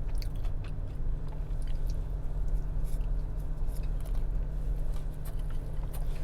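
Close-miked chewing of a deep-fried crunch roll (a battered California sushi roll), with scattered small clicks, over a steady low hum.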